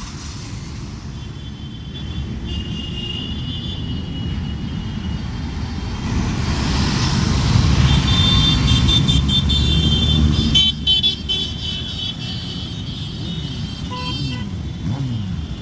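Motorbikes and other road traffic passing with engines running, with horns tooting in the middle of it. The engine noise swells to its loudest about halfway through.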